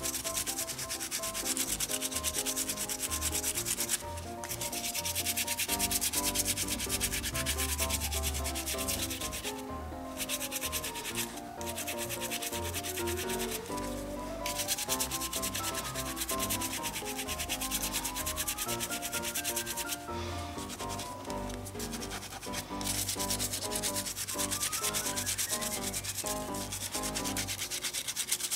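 A small bristle brush is scrubbed rapidly back and forth over leather glove laces, working conditioning lotion into the dry leather. The scrubbing pauses briefly several times as the laces are moved.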